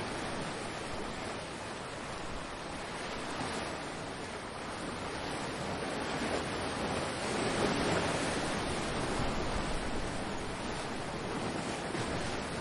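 Ocean surf: waves breaking and washing ashore in a steady rush that swells gently about two-thirds of the way through.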